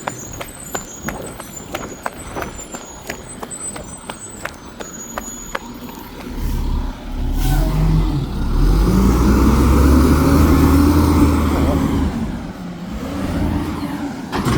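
Garbage truck's diesel engine revving up hard about six seconds in, holding high for several seconds and then falling away, with a smaller rise near the end: the engine powering the packer as it compacts trash. Before the rev, a run of sharp clicks and rattles; a sharp air hiss at the very end.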